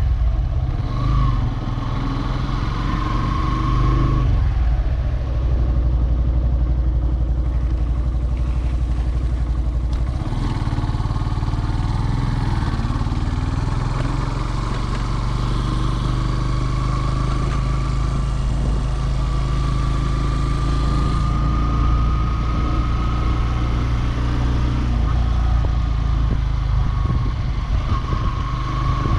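Yamaha FZS V3 motorcycle's single-cylinder engine and exhaust running steadily under way, its pitch drifting slowly up and down with the throttle.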